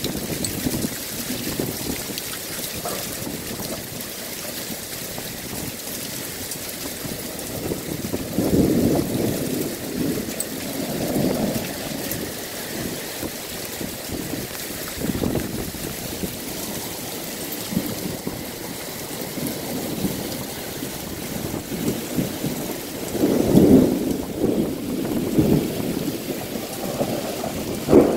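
Heavy thunderstorm rain falling steadily, with several louder low surges, the strongest about eight seconds in and again near twenty-three seconds.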